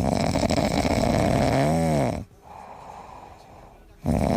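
Loud snoring: a long rasping snore with a brief rising-and-falling tone near its end, a pause, then the next snore starting near the end.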